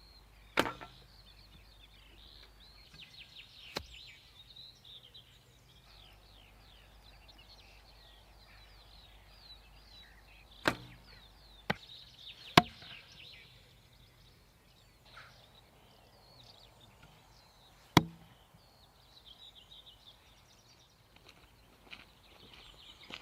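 Six sharp knocks or impacts at irregular intervals: about half a second in, near four seconds, a cluster around eleven to thirteen seconds, and a last loud one near eighteen seconds. Faint high chirping runs underneath.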